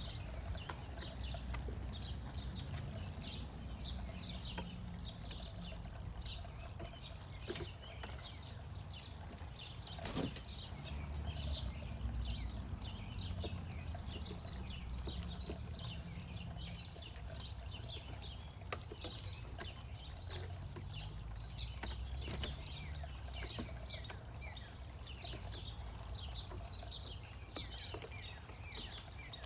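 Small birds chirping continually in quick short notes over a low steady rumble, with a sharp knock about a third of the way in and another later on.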